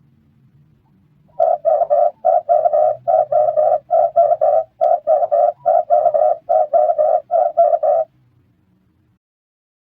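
Red turtle dove cooing: a long run of short, low coos in quick groups of two and three, starting about a second and a half in and stopping at about eight seconds.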